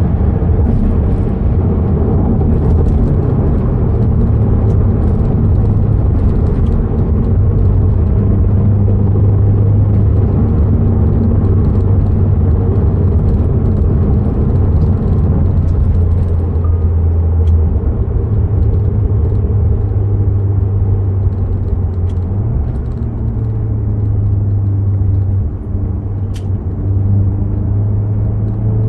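Tuned Mk3 SEAT Leon Cupra 290's turbocharged 2.0-litre four-cylinder engine and valved aftermarket exhaust, heard from inside the cabin while driving at speed. The engine note holds fairly steady over continuous road noise, stepping up a little in pitch twice in the second half.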